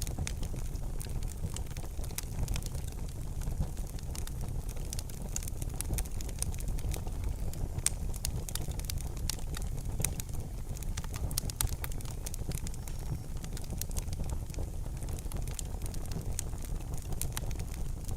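Fire in a fireplace crackling: frequent sharp, irregular pops and snaps over a steady low rumble.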